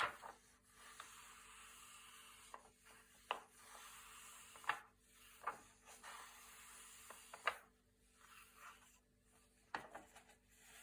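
Thick glossy paper pages being turned one after another, each turn a soft sliding rustle ending in a crisp snap, about every one to two seconds.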